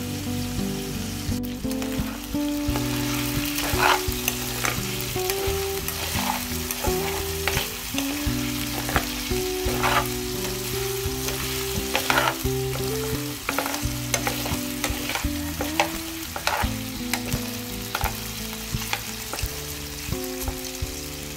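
Chicken pieces sizzling as they fry in oil in a metal pan, with a metal spatula scraping and knocking against the pan as the pieces are stirred and turned, repeatedly from about three seconds in.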